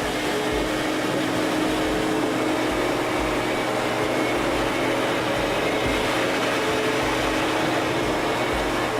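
Sirena water-filtration vacuum cleaner running with a steady whirring hum as it is passed over carpet to pick up pet fur.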